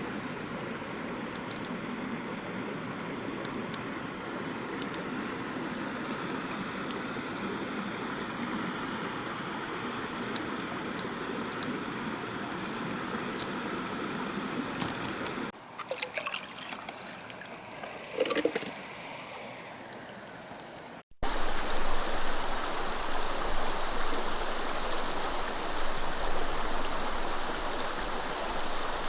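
Stream water rushing steadily. About halfway through it drops to a quieter stretch with a few short knocks, then cuts abruptly to a louder, steady rush of water.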